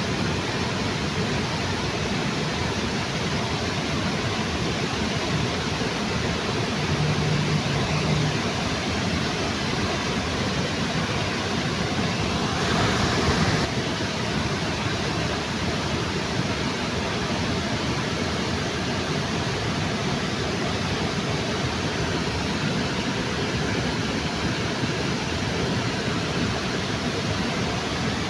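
Waterfall under a bridge: water pouring in a steady, even rush, with a brief louder swell about halfway through.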